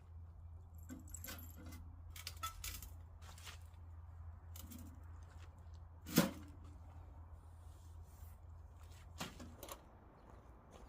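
Scattered light knocks and clicks, with one louder thump about six seconds in, over a low steady hum that stops about nine seconds in.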